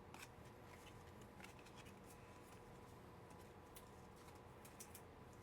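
Near silence: room tone with a few faint, short clicks, the sound of trading cards being handled and flipped.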